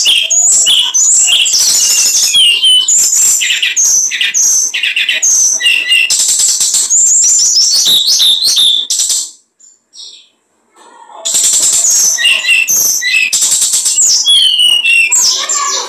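Small songbird singing a fast, loud stream of high chirps, trills and twittering phrases. It breaks off for about two seconds past the middle, then starts again.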